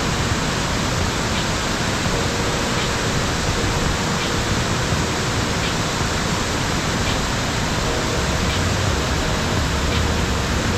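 Waterfall: a steady rush of heavy falling water. A faint tick sounds about every second and a half.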